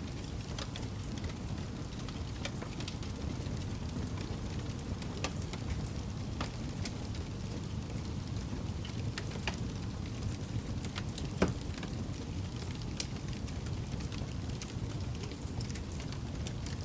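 Wood campfire burning: a steady low rumble with scattered crackles and snaps. One louder pop comes about eleven seconds in.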